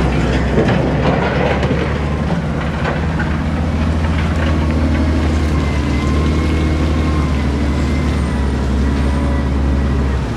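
Heavy earthmoving machine's diesel engine running steadily, with a few metallic knocks in the first few seconds and a faint high squeal in the second half.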